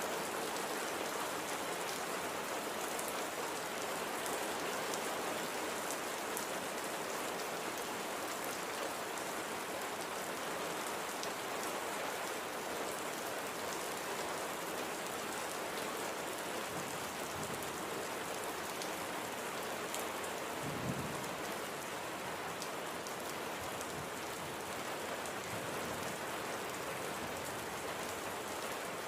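Steady light rain falling and pattering on surfaces, an even hiss of drops with no letup. About 21 seconds in, a single brief low thump stands out.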